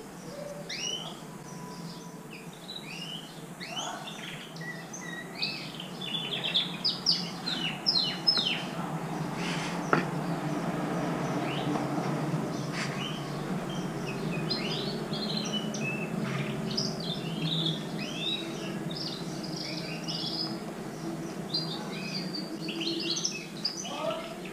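Small birds chirping and twittering in quick, repeated calls, over a steady low hum. A single sharp knock comes about ten seconds in.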